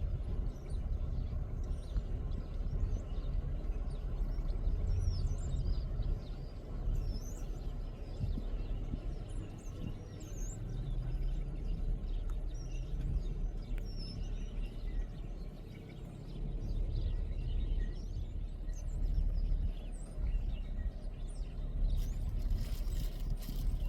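Small birds chirping faintly, many short chirps, over a steady low rumble. Near the end there is a brief burst of rustling noise.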